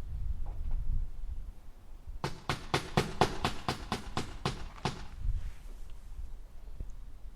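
Hammer driving a nail into wood: a quick, even run of about a dozen blows, roughly four a second, starting a couple of seconds in and stopping about two seconds before the end, over a low background rumble.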